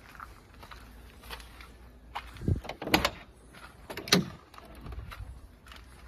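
A few sharp knocks and clunks, the loudest about two and a half, three and four seconds in.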